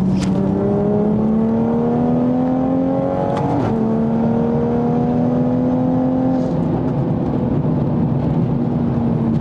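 Tuned 2020 Toyota Supra's turbocharged inline-six heard from inside the cabin, pulling with slowly rising pitch. It shifts up about three and a half seconds in, then pulls again and settles to a steady note.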